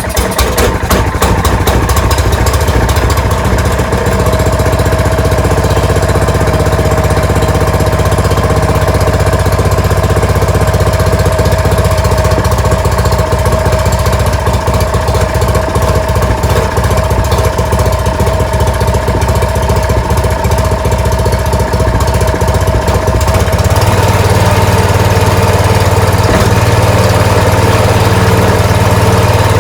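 Ariens 624E two-stage snowblower's engine running steadily, growing louder and heavier about 24 seconds in.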